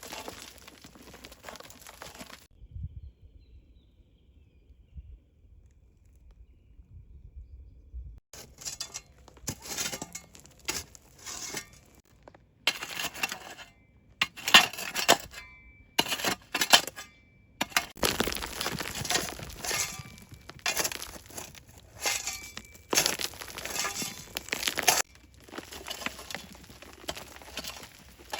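Kitchen handling sounds: irregular clinks and crinkling rustles. After a quiet stretch of a few seconds near the start, they come thickly and unevenly.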